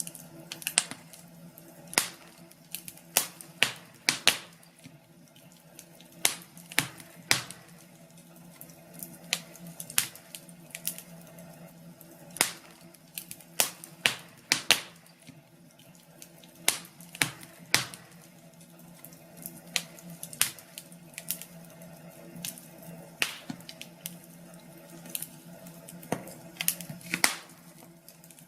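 Wood fire crackling, with irregular sharp pops and snaps about one to three times a second over a faint, steady low hum.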